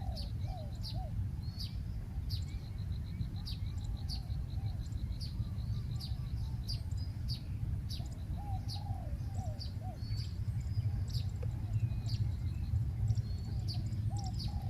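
Spotted dove cooing in several short phrases of arched notes, with many sharp, high chirps from small birds throughout, over a steady low rumble.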